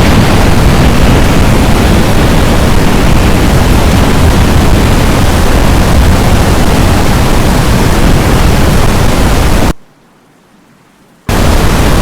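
Strong wind blasting the microphone: a loud, overloaded rush of noise, heaviest in the lows, that drops out suddenly for about a second and a half near the end and then comes back just as loud.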